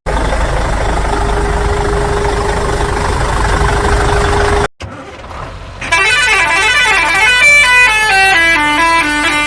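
A loud, noisy heavy-vehicle engine rumble with a steady hum cuts off suddenly. After a short quieter gap, a multi-note musical vehicle horn plays a tune in quick stepping notes.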